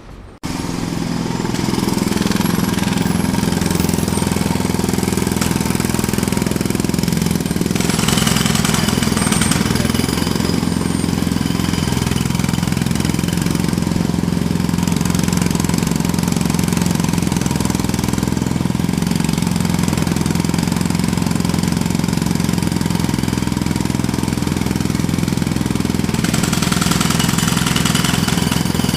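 Jackhammer running continuously, a dense rapid hammering over a steady low engine drone, starting suddenly about half a second in.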